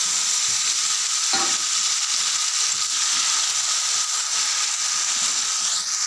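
Parboiled shredded cabbage sizzling loudly in hot oil in a metal kadai, a steady hiss just after it goes into the pan, while a metal spatula stirs and scrapes through it, with a short knock about a second and a half in.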